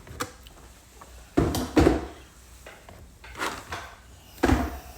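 Handling noises: a few short knocks and bumps of objects being moved and set down, the loudest about a second and a half in and again near the end.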